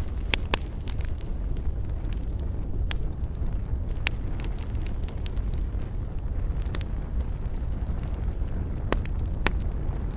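Wood fire burning in a fireplace, crackling with irregular sharp pops about once a second over a steady low rumble of the flames.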